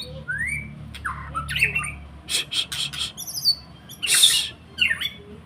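White-rumped shama (murai batu) calling: quick rising whistled notes mixed with harsh, rasping squawk-like bursts, the loudest about four seconds in.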